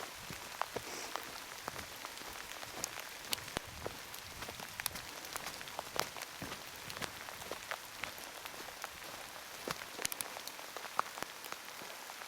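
Heavy rain falling steadily, with many irregular sharp drip impacts striking close by.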